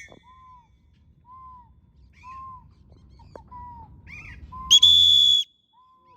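A whistle gives one loud, steady, high-pitched blast of about half a second near the end. Faint short whistled notes that rise and fall repeat about once a second throughout.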